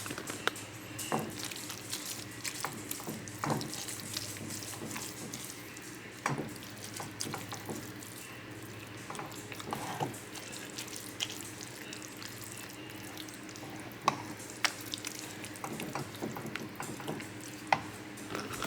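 A utensil stirring a pan of simmering enchilada meat filling on the stove: scattered light clicks and scrapes over a faint, steady hiss.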